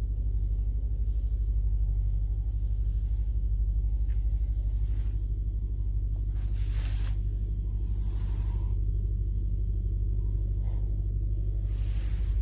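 Mercedes-AMG engine idling steadily in park, heard from inside the cabin as an even low rumble with fine regular firing pulses. Two brief rustles, about a third of the way in and near the end.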